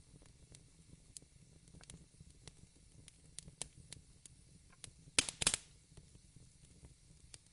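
Fireplace crackling: scattered small sharp pops at irregular intervals, with a louder burst of cracks about five seconds in.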